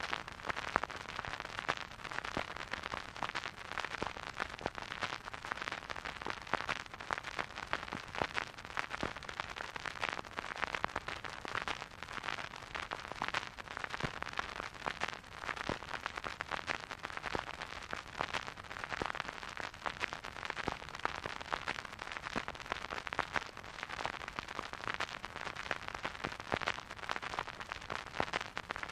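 Vinyl record surface noise from a turntable: the stylus riding the groove with a steady, dense crackle of small clicks and pops over a soft hiss, with no music.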